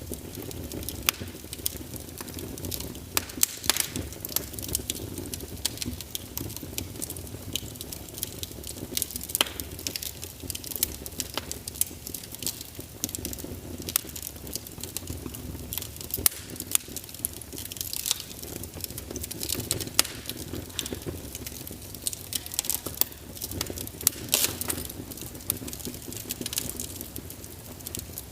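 Wood fire crackling in a fireplace: constant irregular sharp pops and snaps over a steady low rustle.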